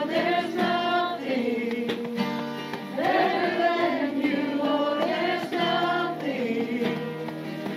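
A congregation and worship team singing a contemporary praise song together, with instrumental accompaniment and long held sung notes.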